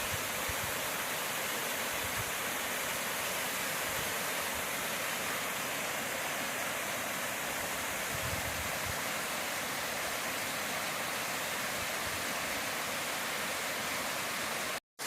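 Steady rushing of a creek's waterfall, an even wash of water noise; it cuts off abruptly near the end.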